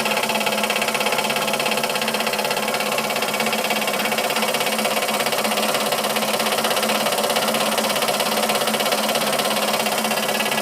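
Stuart ST model steam engine running steadily, with a fast, even beat, turning a small dynamo through pulleys and a universal-joint drive shaft.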